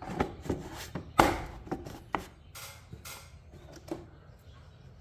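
Dry twigs and grass of a bird nest crackling and rustling as they are pulled by hand out of a garage door opener, in a run of irregular snaps and scrapes, the loudest about a second in, thinning out toward the end.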